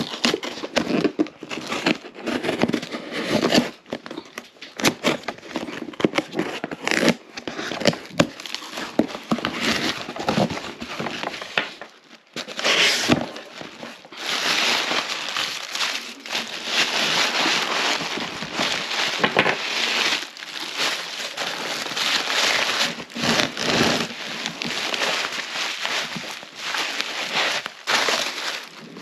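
Packaging being handled and torn open by hand: irregular crinkling, rustling and crackling, denser and steadier from about halfway through.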